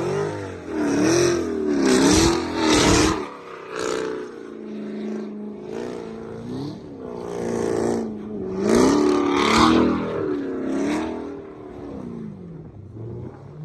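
Camaro ZL1's supercharged V8 revving up and down again and again, its pitch rising and falling, with two loud surges of rushing noise at the highest revs, around two seconds in and again around nine seconds in.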